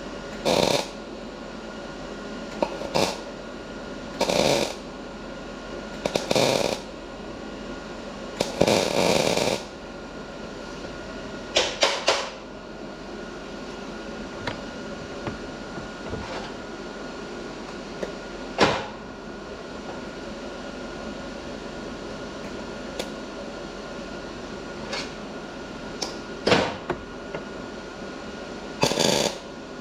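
Gas-shielded arc welder laying short tacks on a chainsaw's thin, cracked steel muffler: about nine irregular bursts of welding noise, each from under a second to about a second and a half long, with a steady hum between them. The metal is thin enough that the welding burns holes in it.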